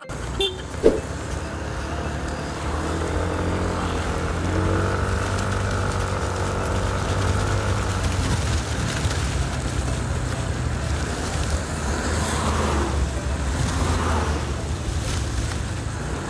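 Yamaha N-MAX scooter's single-cylinder engine running while ridden, its pitch climbing and easing a few seconds in as it speeds up, over steady road noise. A sharp click about a second in.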